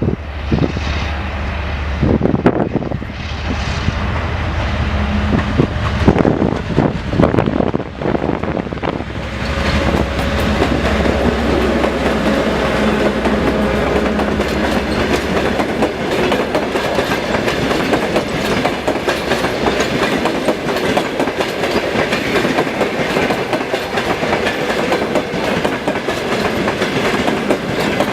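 TEP70 passenger diesel locomotive's V16 engine running as it pulls by, with a steady low drone. From about ten seconds in, the passenger coaches roll past with a continuous rumble and steady clickety-clack of wheels over rail joints.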